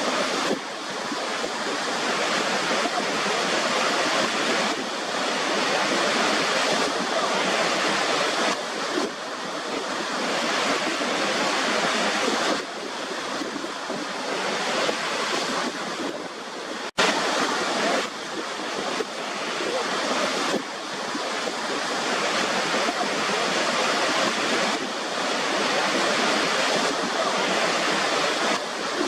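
Waterfall: a steady rush of falling water, swelling and easing slightly, with a sudden momentary dropout about two-thirds of the way through.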